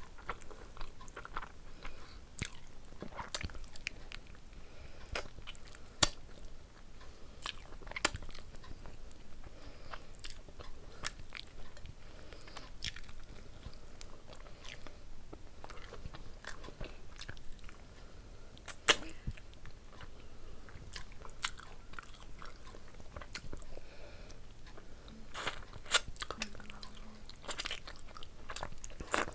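Close-up chewing of handfuls of rice and curry, with wet mouth noises and frequent sharp clicks of the lips and tongue.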